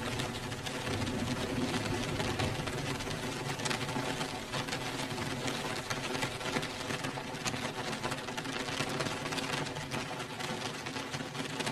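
Steady rain: an even, continuous hiss thick with the small taps of individual drops.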